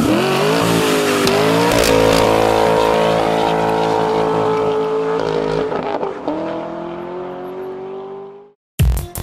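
Sports car engine running hard at high revs, its pitch stepping up and down a few times as with gear changes, then fading away. Electronic music with a beat starts near the end.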